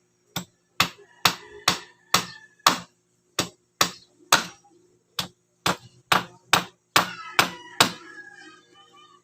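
Hammering during a bed repair: about sixteen sharp blows at roughly two a second, stopping about a second before the end.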